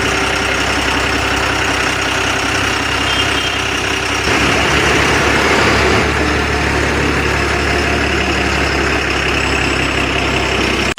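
Truck engine running steadily at idle, a little fuller and louder from about four seconds in.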